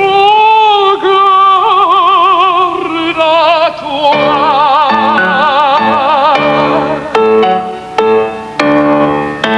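Operatic soprano singing with a wide vibrato, holding long high notes. About four seconds in, accompaniment enters with repeated chords under the voice.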